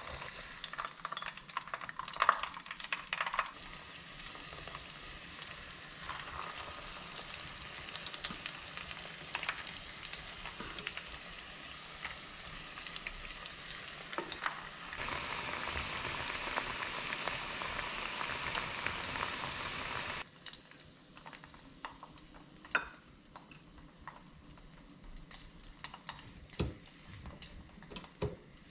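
Battered cauliflower florets frying in hot oil in a small pan: a steady sizzle, with clicks and taps of a fork turning the pieces. The sizzle grows louder, then cuts off abruptly about two-thirds of the way through, leaving only a few faint clinks.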